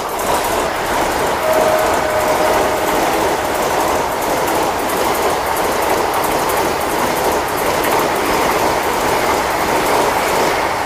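Vande Bharat Express electric trainset running past close by: a loud, steady rush of wheels on rail with rapid clickety-clack over the rail joints.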